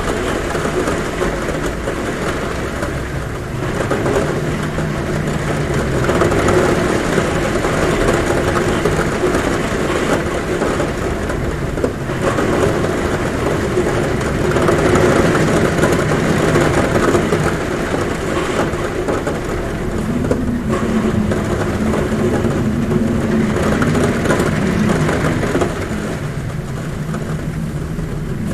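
Heavy rain falling steadily on a roof, with a low wind hum at a window that wavers in pitch and swells and fades.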